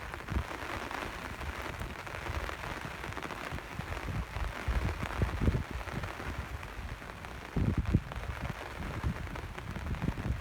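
Steady rain falling, with irregular low thumps under it; the strongest thumps come about eight seconds in.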